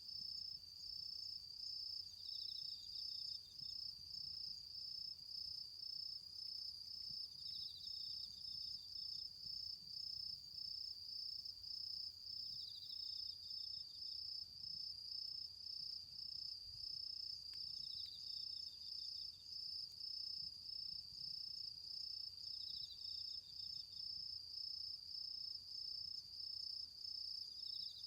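Autumn singing insects: one gives a steady, fast-pulsing high trill throughout, while a second, slightly lower insect adds a short run of chirps about every five seconds.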